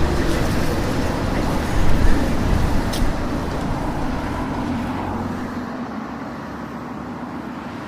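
Street traffic, with a motor vehicle's engine rumbling close by that fades away after about five seconds. A single sharp click about three seconds in.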